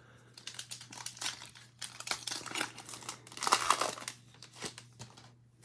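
A trading card pack's wrapper being torn open and crinkled by hand, a dense crackling that swells to its loudest a little past halfway and stops about five seconds in.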